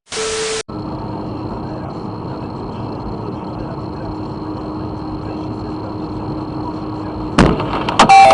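Steady truck running noise with a faint low hum, then near the end a sudden loud bang followed by several sharp knocks: a truck tyre bursting.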